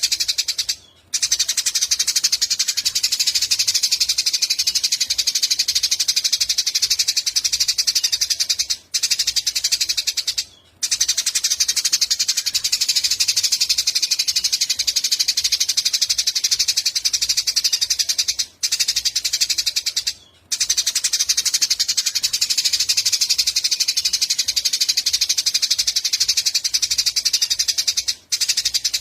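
Small songbird giving a long, very fast, high buzzing trill that breaks off briefly about every nine to ten seconds and starts again.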